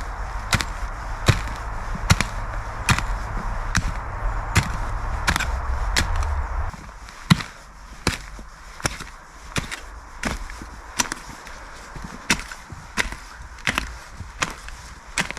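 Evenly paced strikes of a tool on wood, about three every two seconds, as in chopping or driving in wood. A steady rushing noise sits under the first half and stops about halfway through.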